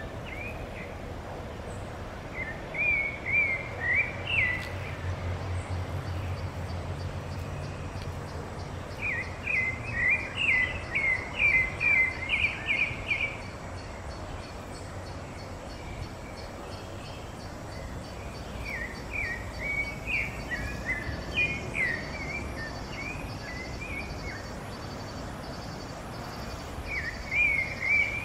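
A bird singing quick, chirping phrases in four bursts a few seconds apart, over a steady low background rumble. A faint, high insect trill joins about halfway through.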